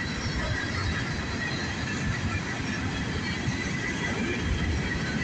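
Empty coal hopper cars of a freight train rolling past steadily, wheels clattering on the rails with a faint thin squeal.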